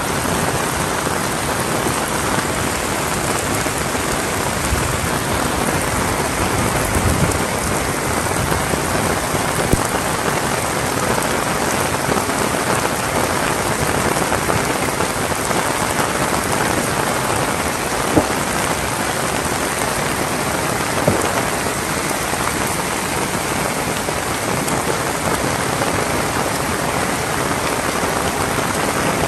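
Heavy rain falling steadily in an even hiss, with three sharp taps close by, the loudest about two-thirds of the way through.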